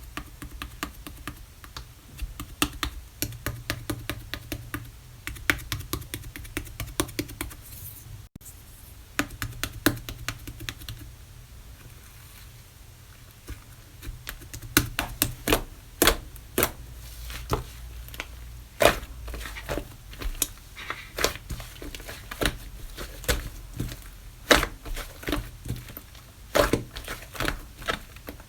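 Slime being squeezed and pressed by hand, giving a run of irregular sharp clicks and pops. The clicks thin out and go quieter partway through, then come back louder and more spaced.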